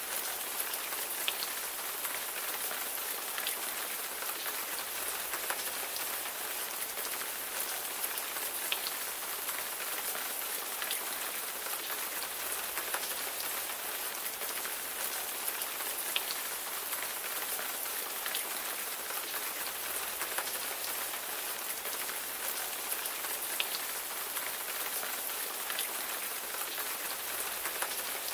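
Steady rain falling, an even hiss with individual raindrops ticking sharply here and there.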